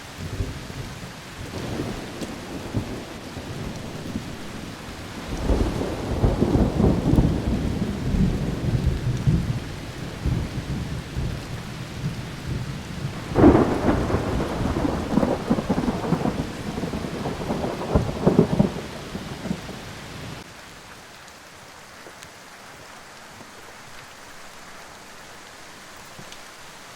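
Storm noise: two long rumbling swells, the first about five seconds in and the second around thirteen seconds, over a steady hiss that turns quieter about twenty seconds in.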